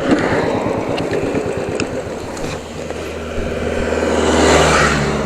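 Motorcycle engine running at low revs among road traffic. A vehicle swells past, loudest about four and a half seconds in, then fades.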